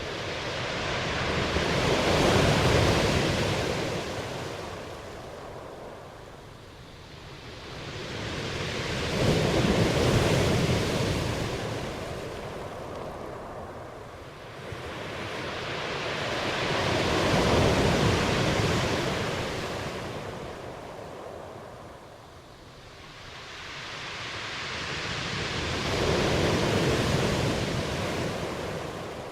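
Ocean waves breaking and washing up on a shore, four slow surges that swell and fade about every eight seconds.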